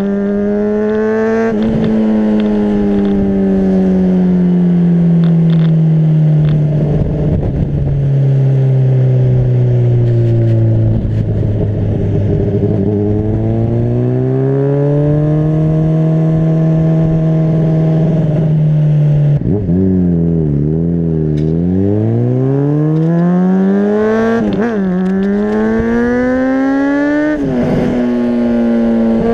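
Honda CBR600RR's inline-four engine running under way, its note sinking slowly and climbing again as the throttle is closed and opened. Around two-thirds through, the pitch drops suddenly, wavers, then climbs steadily with a quick blip; near the end it steps up abruptly, like gear changes.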